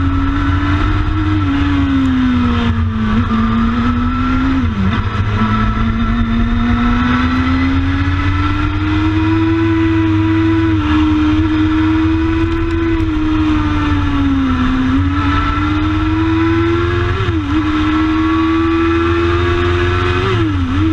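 Kawasaki ZX-12R inline-four engine of a racing sidecar outfit heard onboard at speed, its note rising and falling with the throttle and dipping sharply at gear changes about five seconds in, around seventeen seconds and near the end. Heavy wind rush runs underneath.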